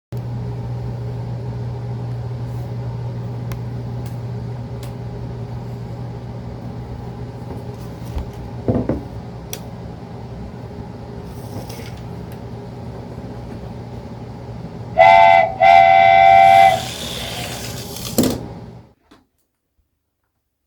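Toy train running with a steady motor hum and a few knocks, then sounding its whistle in two blasts; the sound cuts off suddenly near the end.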